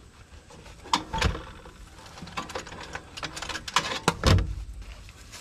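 A few sharp metal knocks and clunks, the heaviest about four seconds in, as a slightly bent hitch pin on a tractor's three-point linkage is worked at by hand and will not come out.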